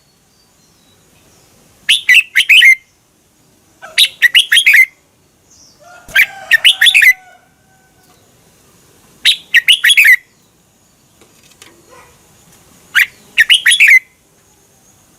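Red-whiskered bulbul singing five short, bright phrases of quick warbled notes, each under a second long and a couple of seconds apart.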